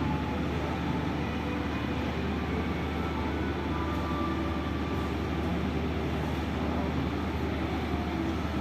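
Steady low rumble of a ferry's engines, with a constant deep hum under it.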